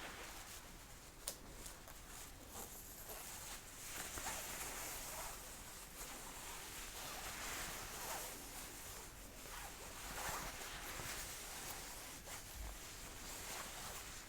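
Jacket fabric rustling and swishing as a sleeve is rolled and rubbed, in a series of soft strokes of about a second each, with a small click a little over a second in.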